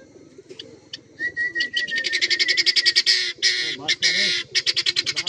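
Birds calling: a short steady high note about a second in, then a rapid, even run of high chirps, about ten a second, from about two seconds in.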